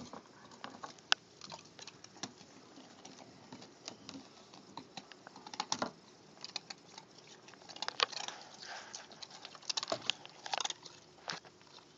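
A dog crunching and chewing on a piece of ice: irregular sharp cracks and crunches, some louder snaps about a second in, near the middle and toward the end.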